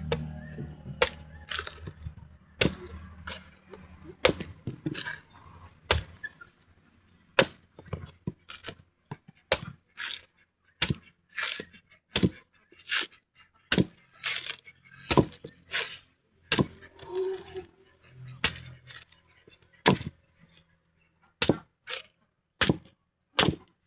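Repeated sharp chopping blows on a green coconut, about one or two strikes a second at an uneven pace, dozens in all.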